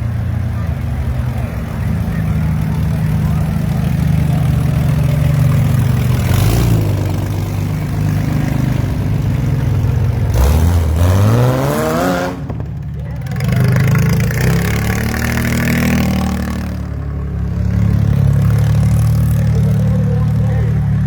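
A demolition-derby truck's engine running at a steady idle, then revving up in a sharp rising climb about ten seconds in before settling back to idle.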